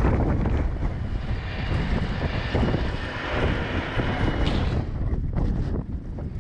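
Tractor engine running under heavy wind noise on the microphone, with a whine that rises and cuts off suddenly about four and a half seconds in.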